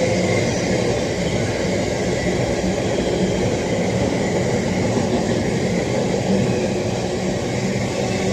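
A train at a railway station, running with a steady, unchanging hum of several held tones over a rushing noise.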